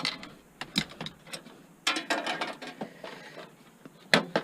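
Sharp clicks and clattering of metal and plastic parts as a desktop computer is pried apart and dismantled by hand, with a longer rattle about two seconds in.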